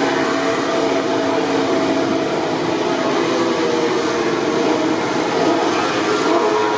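MotoGP race bike engine running at a steady, even pitch with only slight drifts, like a bike held at pit-lane speed.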